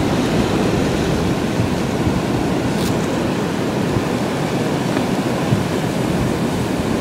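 Blizzard wind blowing hard in a steady rushing noise, buffeting the microphone.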